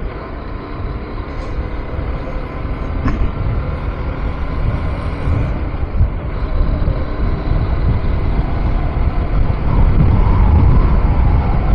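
KTM 390 Adventure's single-cylinder engine running while riding, mixed with heavy wind rumble on a helmet-mounted microphone; the noise grows louder over the last few seconds.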